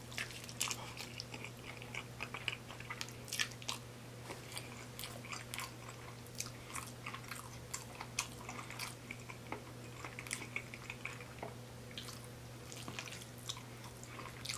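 Mouth sounds of a person chewing a mouthful of cheesy spaghetti with meat sauce: wet, irregular smacks and clicks. A steady low hum runs underneath.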